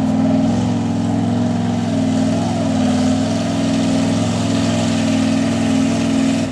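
Mud truck's engine running steadily at an even speed, its pitch barely changing, on a truck with a sticking throttle.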